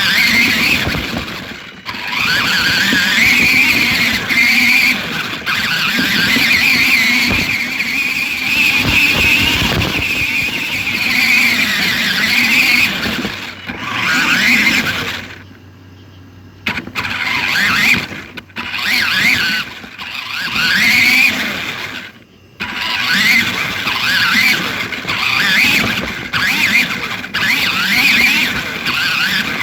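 Electric motor and gears of a toy RC Jeep Wrangler whining as it drives, the pitch rising and falling with the throttle and cutting out briefly several times.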